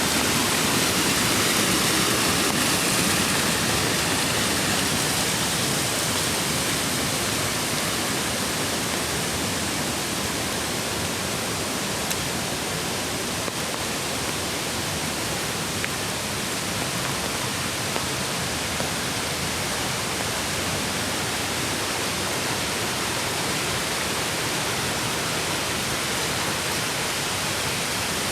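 Mountain creek water rushing in a steady, even wash of noise, a little louder in the first few seconds.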